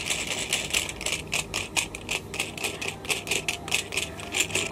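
Plastic toy washing machine from a DIY candy drink kit having its knob turned by hand, giving rapid, uneven clicking, several clicks a second; the turning churns the drink powder and water into foam.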